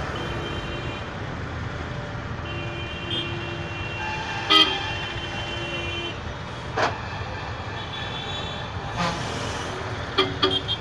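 Vehicle horns sounding in road traffic over a steady rumble: a short honk at the start, then a longer one of about three and a half seconds. A few short sharp knocks follow in the second half.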